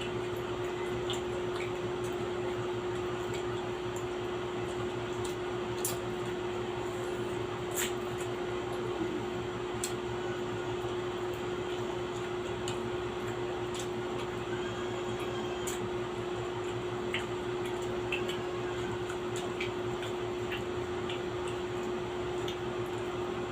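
A steady mechanical hum with one constant tone, with scattered small clicks and taps of eating and utensils over it.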